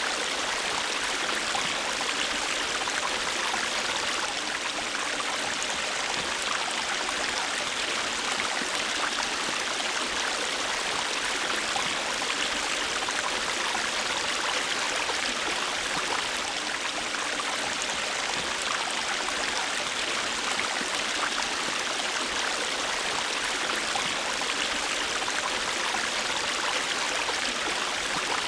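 River water flowing steadily: a continuous rushing and babbling of a stream over rocks, even in level throughout.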